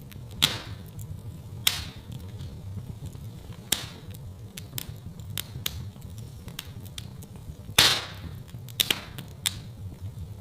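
Wood fire crackling in a fireplace: sharp, irregular pops every second or two, the loudest about eight seconds in, over a steady low rumble.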